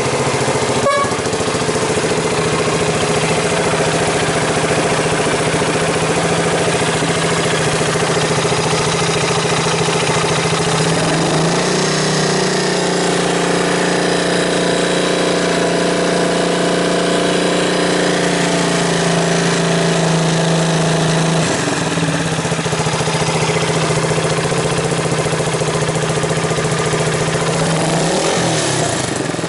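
Honda FTR223's single-cylinder engine idling steadily through an aftermarket SuperTrapp exhaust, its pitch easing up slightly about eleven seconds in and a short rev blip near the end.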